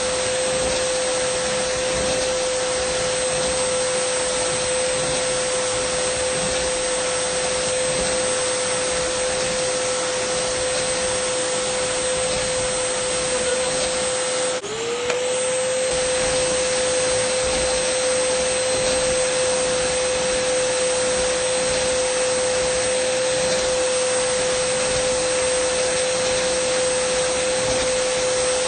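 Dyson vacuum cleaner running steadily: an airy rushing hiss over a constant high motor whine. About halfway through, the whine briefly dips in pitch and level, then glides back up to its steady note.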